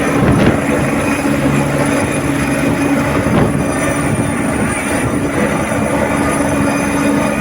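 Police rescue helicopter running close by: steady, rapid rotor chop over a constant engine hum.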